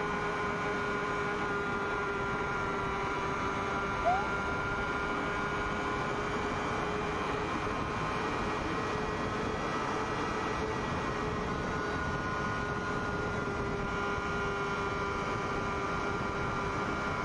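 Sport-bike engine held at steady revs at high speed, with wind noise, recorded onboard. A short rising blip sounds about four seconds in.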